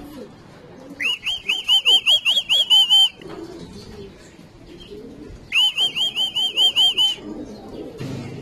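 A bird calling twice, each time a quick, high-pitched run of about ten sharp chirps lasting about two seconds.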